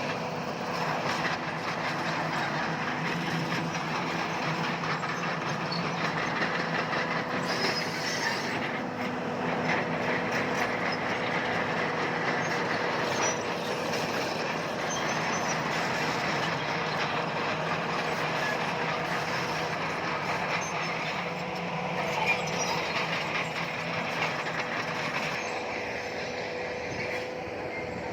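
Crawler bulldozer working: diesel engine running under load with its steel tracks clattering and a steady whine.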